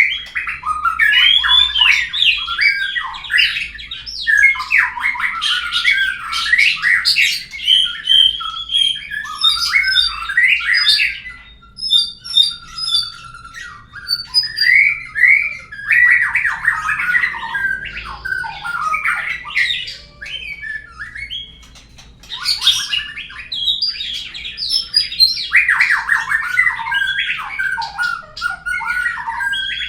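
White-rumped shama (murai batu) song, a fast, varied run of whistles and chattering notes in long phrases with brief lulls about 12 and 21 seconds in. This is birdsong used as a lure (pancingan) to prompt a kept murai to start singing.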